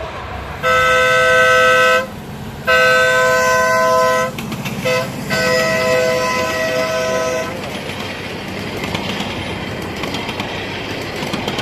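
A 1/8-scale ride-on miniature train sounds its horn, a loud multi-note chord, in two long blasts, a short one and a final long one (the long-long-short-long grade-crossing signal). The train's running rumble goes on under and after it.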